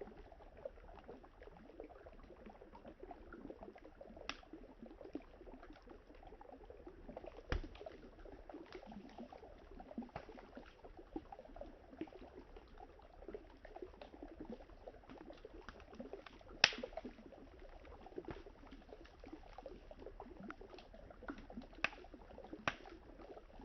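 Campfire crackling, its wood giving scattered sharp pops, the loudest about two-thirds of the way through, over a steady low rush of river water.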